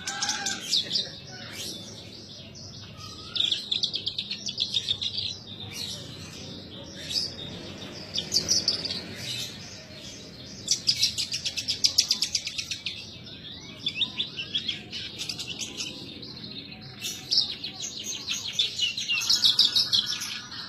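Branjangan (Horsfield's bush lark) singing in full, vigorous song: fast runs of high chirps and buzzy trills, coming in several long bursts with short lulls between them.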